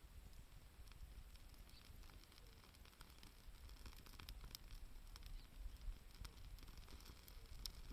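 Campfire crackling faintly: scattered small pops and snaps over a low, steady rumble.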